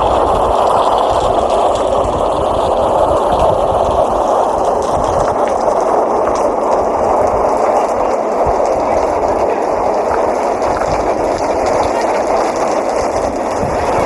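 Steady rain, a dense even hiss with a low rumble beneath.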